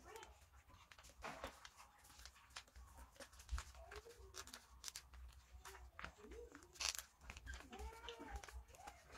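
Sheet of paper being handled, folded and creased by hand: a run of soft crackles and sharp clicks. A few faint rising and falling voice-like sounds come in about halfway through and again near the end.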